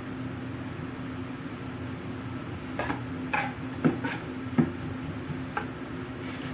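About half a dozen light clinks and taps of small hard objects being handled, between about three and six seconds in, over a steady low hum.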